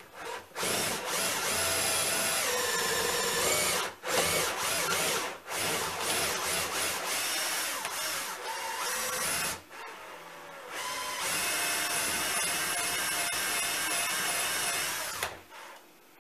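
Power drill boring through wood in several long runs, its whine shifting and dipping in pitch as the bit bites. There are short breaks between the runs, and it stops shortly before the end.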